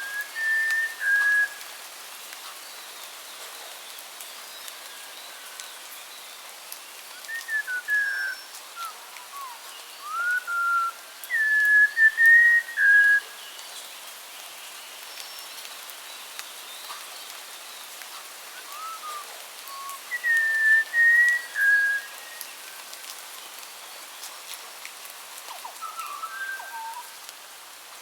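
A songbird singing clear, whistled phrases of a few gliding notes each, spaced several seconds apart, over a steady background hiss.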